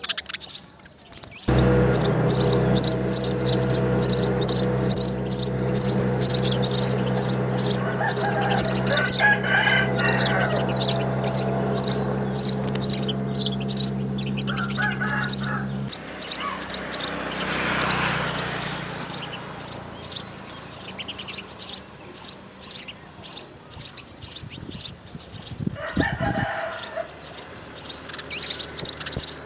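House sparrows chirping in a fast, steady series of short, high chirps, about three a second. A steady low machine hum runs under them and stops about halfway, and a rooster crows a couple of times.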